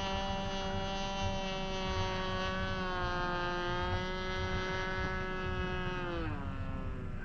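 Magnum glow engine of an RC Cessna 182 model airplane running in flight, a steady high-pitched drone that sags a little partway through and then drops sharply in pitch near the end.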